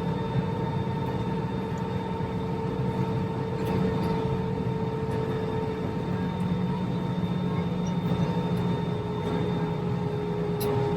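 Airbus A321neo jet engines running at a steady low power, a constant drone with several held humming tones and no spool-up.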